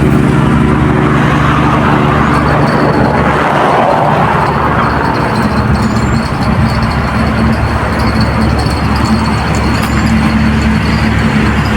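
Motor vehicle engines running close by as a steady low drone, with a vehicle passing about four seconds in.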